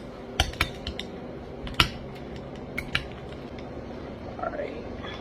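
A spoon clinking in a bowl of cereal with ice cubes, a few separate sharp clinks over a faint steady low hum.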